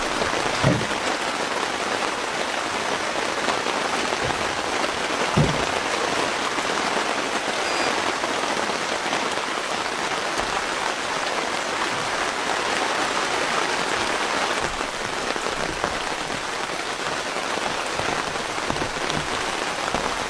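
Steady rain falling and pattering on surfaces, with a couple of brief low thuds, one near the start and one about five seconds in.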